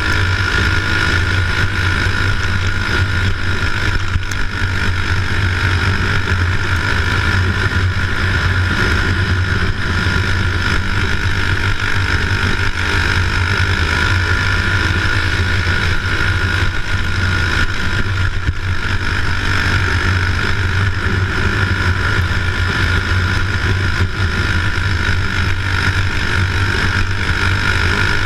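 An engine running steadily at an even speed, a constant low drone with no change in pitch or loudness.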